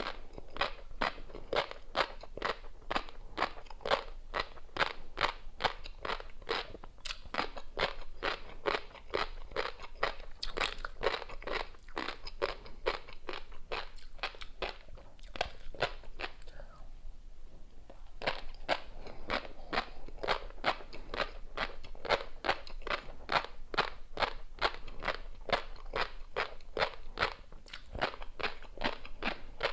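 Close-miked chewing of tobiko (flying fish roe) with a crunchy seafood topping: crisp crunching pops about four a second, pausing for about two seconds past the middle before resuming.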